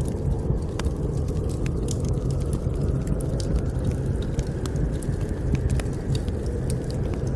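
Fireplace fire crackling with scattered, irregular sharp pops over a steady low rumble of blizzard wind.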